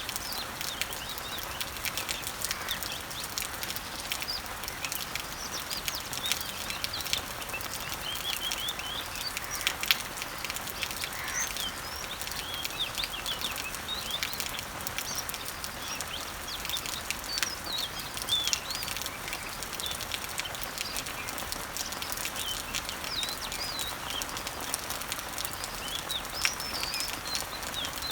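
Steady rain falling on garden leaves and trees, a continuous hiss full of small droplet ticks, with several birds chirping in short repeated calls throughout.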